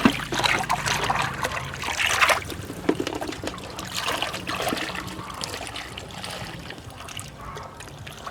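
Shallow water splashing and trickling in irregular bursts, loudest in the first couple of seconds and settling to a lighter trickle toward the end.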